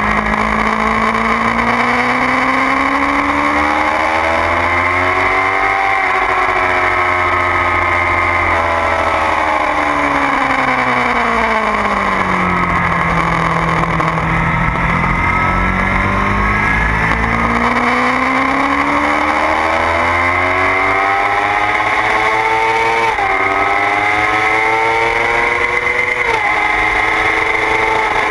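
2009 Kawasaki ZX-6R's inline-four engine under way on a race track: it revs up, falls to its lowest revs about halfway through, then pulls up again with two quick upshifts near the end. Heard from the bike's tail over steady wind rush.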